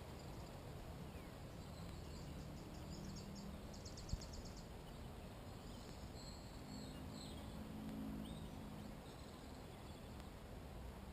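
Faint birdsong: a fast trill of evenly repeated high notes in the first half, then scattered high calls, over a low hum that comes and goes. A single sharp click sounds about four seconds in.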